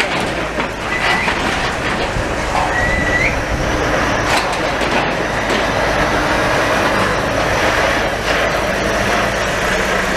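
Demolition machinery working: continuous heavy clatter and grinding, with short high metallic squeals about one second and three seconds in, the second rising in pitch.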